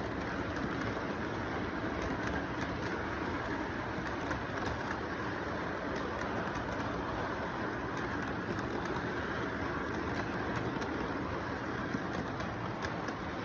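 Model train running steadily around its track, a continuous rolling noise with faint scattered ticks, with pigeons or doves cooing in the background.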